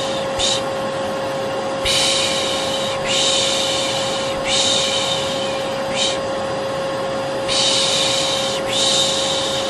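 Vacuum cleaner running with a steady hum, overlaid by a repeated soothing 'shhh' shushing for a baby. The shushes are mostly about a second long, coming every second or so, with a couple of short ones.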